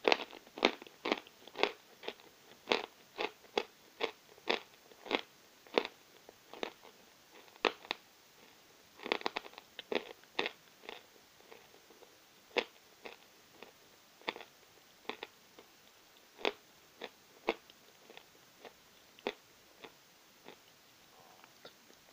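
Close-up chewing of Novy Oskol natural chalk: a run of sharp crunches, about two to three a second at first with a dense burst about ten seconds in, then thinning out to single crunches a second or more apart.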